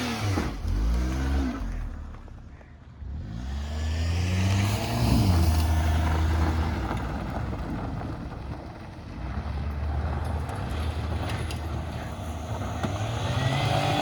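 Car engine running with dish detergent in its crankcase in place of engine oil, still running smoothly. The revs fall at the start and the sound drops briefly, then it revs up again about four seconds in, runs steadily and rises once more near the end.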